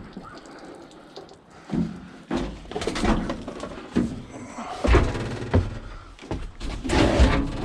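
A string of heavy knocks and thuds as a discarded washing machine is manhandled, its metal cabinet bumping and banging several times.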